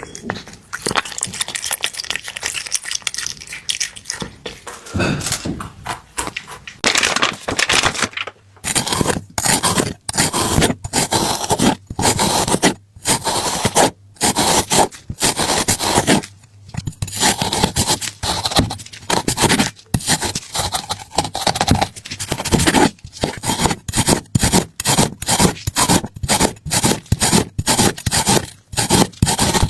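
Rhythmic scraping: softer and continuous at first, then a run of short, loud scraping strokes at about two a second that quicken toward the end.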